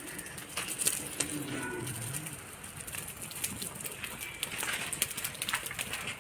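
Outdoor background with birds calling, including low cooing in the first half, and scattered light clicks throughout.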